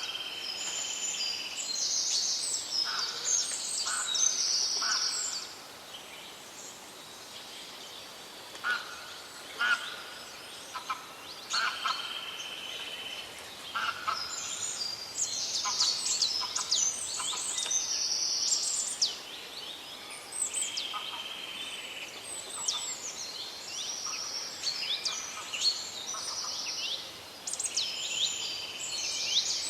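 Several songbirds singing together in a forest chorus: many overlapping high-pitched trills and chirps, with a few lower notes, thinning out for a couple of seconds about six seconds in, then busy again.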